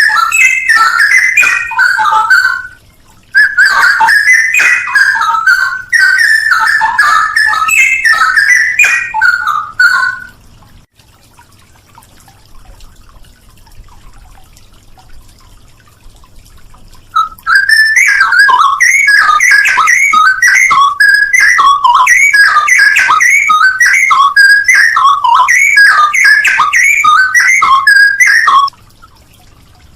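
Straw-headed bulbul (cucak rowo) singing loud, rapid whistled phrases that glide up and down, in two long bouts separated by a pause of about seven seconds near the middle.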